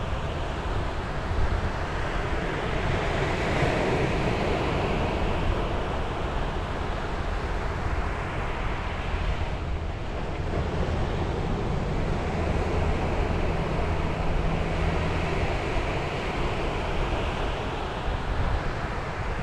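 Sea waves breaking and washing up a beach, the surf swelling twice into long rushes, with wind rumbling on the microphone.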